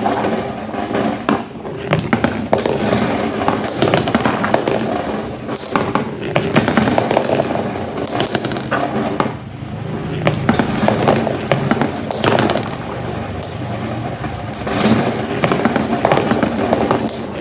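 Marbles rolling and clattering down a homemade marble run: a steady rolling rumble with many sharp clicks and knocks as the marbles drop and strike the track.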